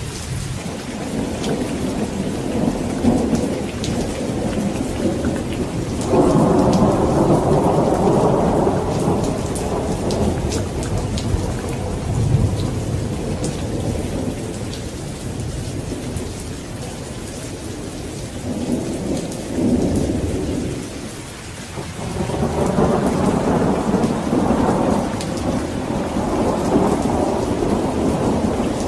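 Steady rain with rolling thunder. The thunder comes in long low rumbles, a loud one breaking in suddenly about six seconds in and dying away over several seconds, and another swelling up near the end.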